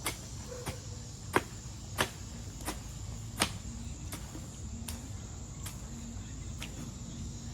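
Crickets trilling steadily over the low engine rumble of a tractor tilling the garden, with sharp clicks every half second to a second.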